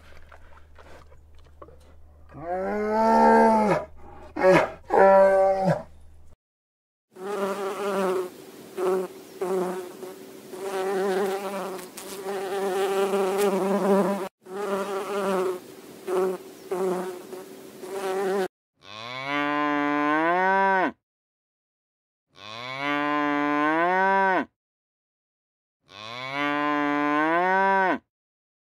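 A few short animal calls, then a bee buzzing steadily for about eleven seconds with brief breaks. After that come three drawn-out moos from a bovine, each about two seconds long, rising in pitch and evenly spaced.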